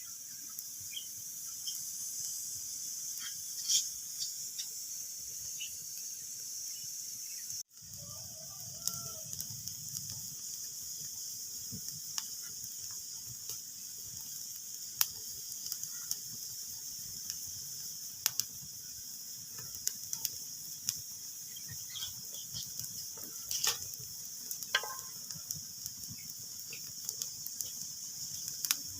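Wood fire crackling in a fireplace: a steady hiss with scattered sharp pops and snaps at irregular intervals. The sound cuts out for an instant about eight seconds in.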